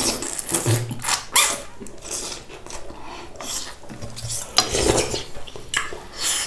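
Metal utensils clinking and scraping against bowls and dishes while eating, a string of sharp clinks at irregular intervals.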